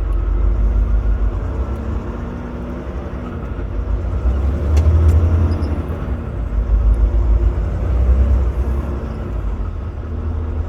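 Semi truck's diesel engine running, heard from inside the cab as a low rumble that swells and eases a few times, with a single short click near the middle.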